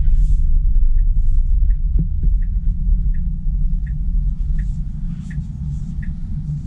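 Steady low road and cabin rumble inside a car, with the turn signal ticking evenly, about once every 0.7 seconds, while the car waits to turn.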